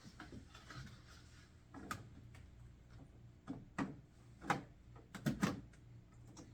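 Parts of a portable air conditioner being handled and fitted together: about seven sharp knocks and clicks, several close together near the end, over a steady low hum.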